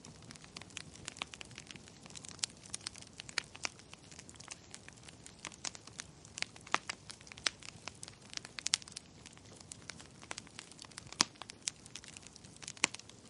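Wood fire crackling in a fireplace: irregular sharp pops and snaps, sometimes several a second, over a faint steady hiss, with a few louder snaps near the middle and toward the end.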